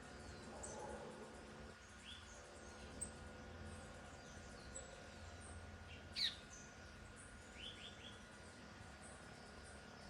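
Violaceous euphonia calling: scattered short, high chirps, with one louder downward-sweeping note about six seconds in and a quick run of three short notes soon after. A faint steady hum lies underneath.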